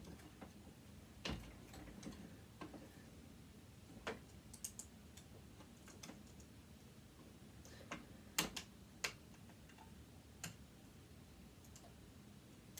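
Sparse, faint clicks and light taps of small metal parts and a hand tool being worked on a sewing machine motor during disassembly. There are about a dozen irregular clicks, the loudest a little over eight seconds in.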